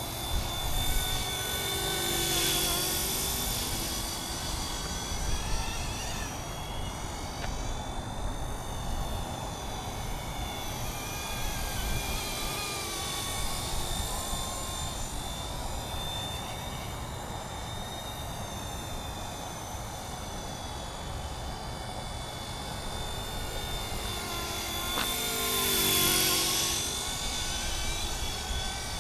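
Radio-controlled scale MD 500 model helicopter flying: the steady buzz of its rotor runs under a high motor whine. It swells louder twice as it passes close, once a couple of seconds in and again near the end.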